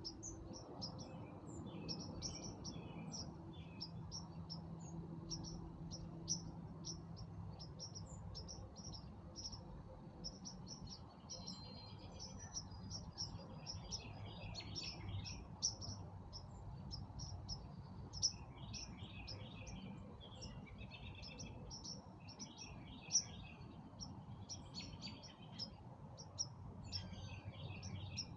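Several songbirds chirping and singing at dusk: a dense run of short, high chirps with warbling phrases mixed in, over a faint steady low rumble.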